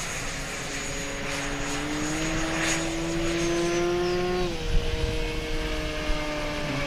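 Twin 70 mm electric ducted fans of an RC jet whining in flight. The pitch rises gradually, then drops sharply about four and a half seconds in and holds lower.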